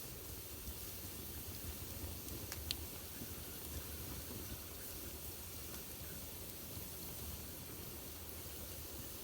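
Wood fire burning in a fireplace: a steady hiss of flames with a single sharp pop about two and a half seconds in and a few faint crackles.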